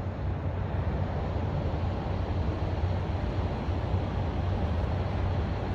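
Steady low rumble of an idling vehicle engine, with no changes in pitch or level.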